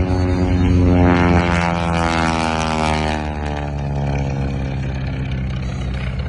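Propeller airplane making a fly-by. Its engine tone is loudest about a second in, then falls in pitch as it goes past and away.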